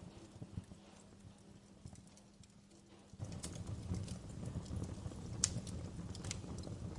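Wood fire crackling, with scattered sharp pops over a low rumbling hiss. About three seconds in, the rumble suddenly gets louder and the pops come thicker and sharper.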